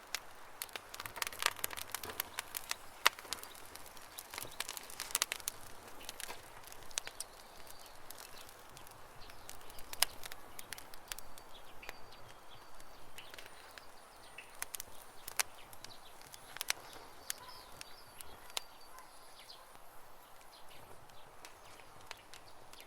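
Campfire crackling, with irregular sharp pops, thickest in the first few seconds and sparser after. Birds chirp faintly in the background.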